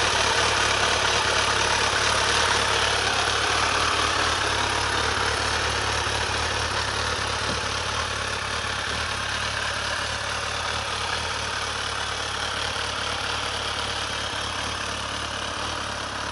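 Kawasaki ZRX1200 DAEG's inline-four engine idling steadily through its exhaust, gradually growing quieter.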